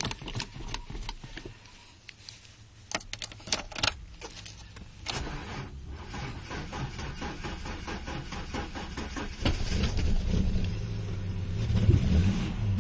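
Cold start of a Ford Fairmont's engine after a night near 4 degrees: a few sharp clicks first, then from about five seconds the engine turns over and runs. It gets louder from about ten seconds in, with the revs rising and falling.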